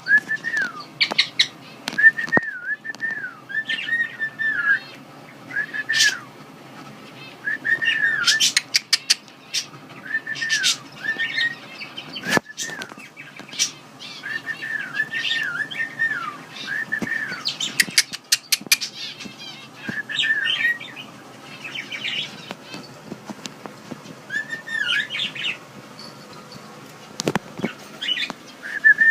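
Pet female cockatiel whistling: short rising-and-falling notes repeated in phrases, with sharp chirps between them.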